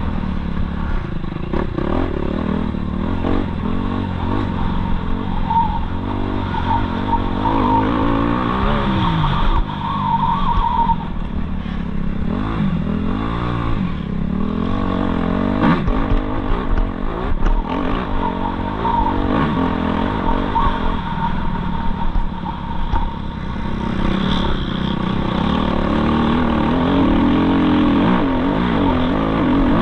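Suzuki RM-Z250 motocross bike's 250cc four-stroke single engine revving up and down as it is ridden, its pitch rising and falling over and over.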